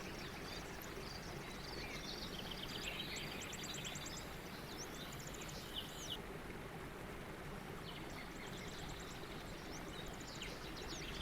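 Songbirds twittering faintly in quick high trills and chirps, which fade out about six seconds in and return briefly near the end, over a steady low hiss.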